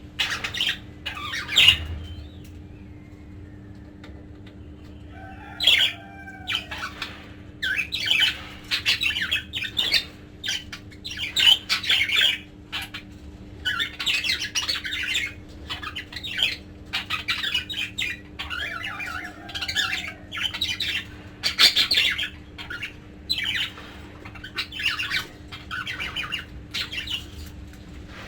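Pet budgerigars chattering and squawking in quick, scratchy bursts of calls, with a few seconds' lull early on before the chatter resumes.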